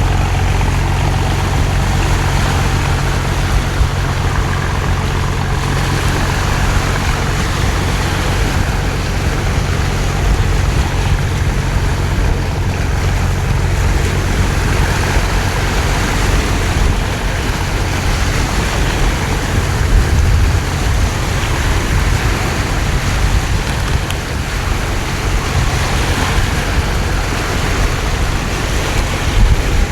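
A fishing boat's engine running steadily as a low hum, under a constant hiss of heavy rain and splashing water.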